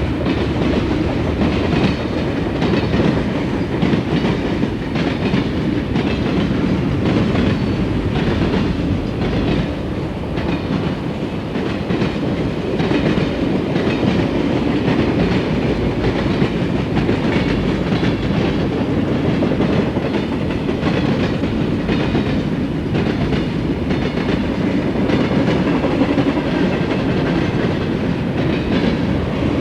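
Southern Pacific freight train rolling steadily past, its wheels clicking over the rail joints.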